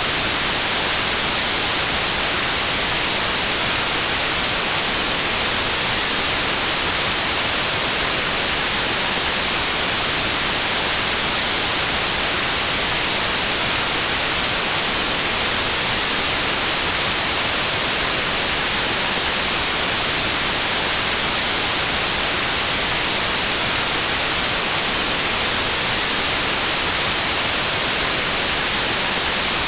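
Steady white noise: an even hiss, bright and unchanging, with no tones or events in it.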